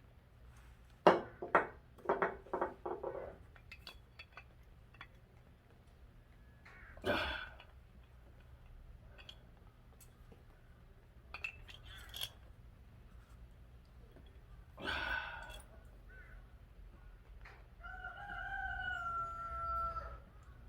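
A rooster crowing once near the end, one long call that dips slightly at its close. Earlier, about a second in, comes a quick run of sharp clinks and knocks.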